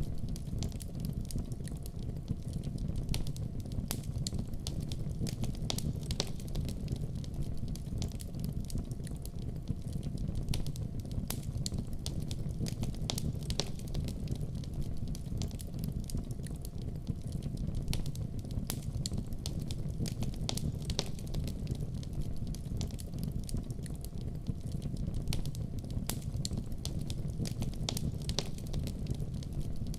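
Wood fire burning in a fireplace, a steady low rumble of flames with frequent small crackles and pops scattered irregularly throughout.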